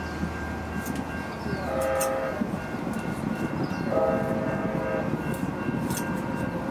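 A passing train rumbles steadily and sounds its horn twice, a short chord-like blast about two seconds in and a longer one about four seconds in. Faint scrapes of a metal spatula on cement can be heard beneath it.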